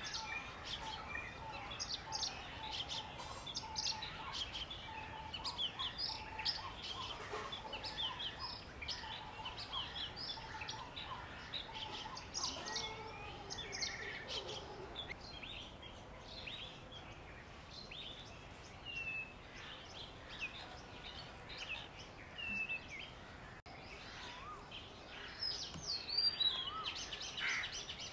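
Several small birds chirping and calling at once, a busy chorus of short high notes that thins out midway, then louder, sharp chirps near the end.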